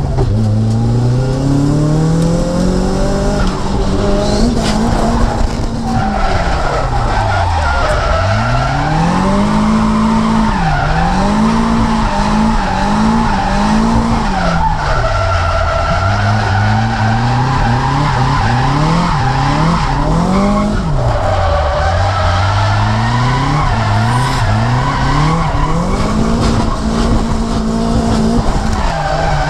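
Nissan S14's SR20DET turbocharged four-cylinder engine revving hard and dropping back again and again through a drift run, at times held flat near the top of the revs. Tyres squeal under it.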